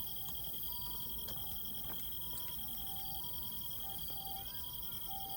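Insects, crickets, trilling steadily at a high pitch over a low outdoor rumble, with short steady tones at two lower pitches coming and going. No fireworks bursts.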